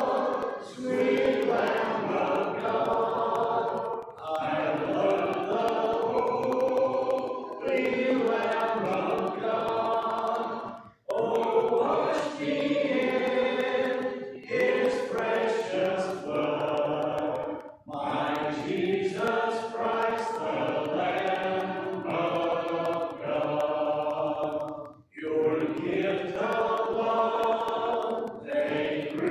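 Congregation singing a hymn a cappella, many voices together with no instruments, in long sung lines with short breaks between phrases.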